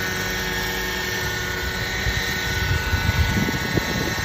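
Small drone helicopter's electric rotors whining steadily at a constant pitch. Uneven low rumbling thumps come in about two seconds in and last until near the end.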